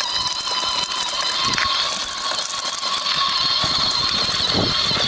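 Battery-powered ride-on toy motorcycle running: a steady high whine from its electric motor and gearbox, with a fast mechanical clicking rattle.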